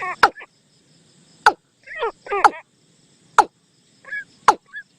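Bird decoy call playing, a repeated pattern of sharp, quick downward-swooping notes about once a second, alternating with lower falling calls. It is a lure call used to attract the bird for hunting or trapping.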